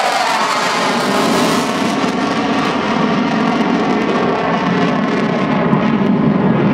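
McDonnell Douglas F-4 Phantom II's twin J79 turbojets in a loud, low pass; the pitch drops as it goes by just at the start, then a steady jet roar carries on as it moves away.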